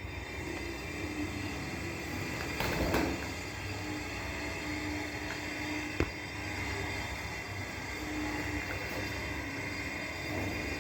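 Domestic pigeons cooing, with long low coos that come and go over a steady low hum, a brief louder noise about three seconds in and a sharp click about six seconds in.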